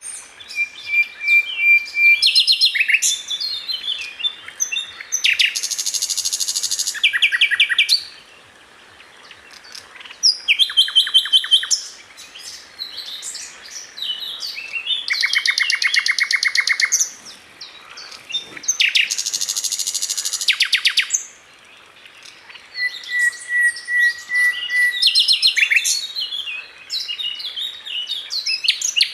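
A sikatan londo (flycatcher) singing a full, varied song: long steady whistled notes, fast rattling trills and quick jumbled notes, in bouts with short pauses between.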